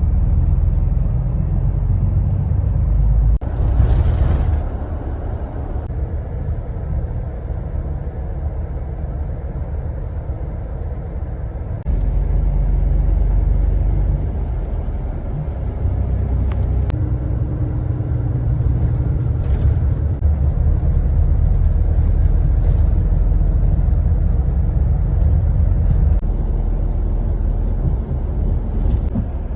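Steady low rumble of a moving road vehicle heard from inside, engine and road noise, with a short hiss about four seconds in.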